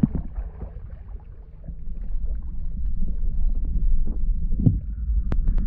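Wind buffeting the microphone: a low rumble that grows louder partway through, with a few sharp clicks near the end.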